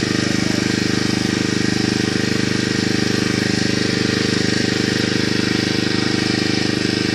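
A small engine running steadily at one constant speed, with a fast, even chugging pulse.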